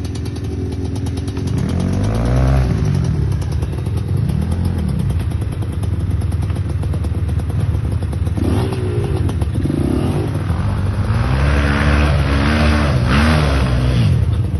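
Geon GNX 300 enduro motorcycle engine running under repeated throttle, its pitch rising and falling again and again as it revs, with the revs coming in quicker succession in the last few seconds.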